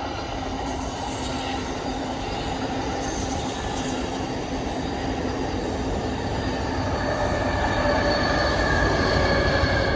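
Pacific Surfliner passenger train passing: a steady rumble of wheels on rail with thin, high steady tones over it, growing louder toward the end.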